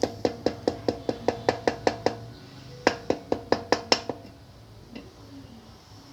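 Quick metal-on-metal hammer taps, about five ringing strikes a second, in a run of about two seconds, a short pause, a second run of just over a second, then one last lighter tap.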